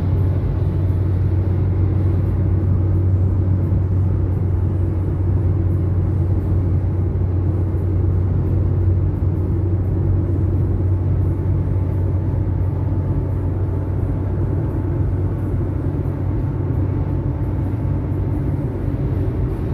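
Steady low drone of a motor vehicle travelling at a constant speed, engine and road noise with no change in pitch.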